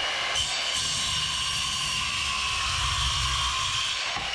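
Power grinder running against the steel of a Damascus golok blade, a steady high grinding hiss with a faint whine in it.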